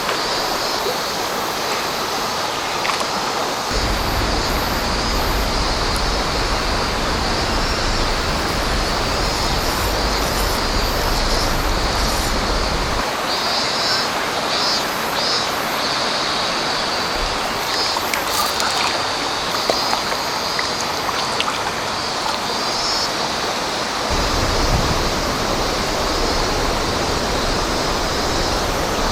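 River water rushing steadily past. A low rumble comes in about four seconds in, drops out about thirteen seconds in, and returns near the end, and a few faint high chirps sound midway.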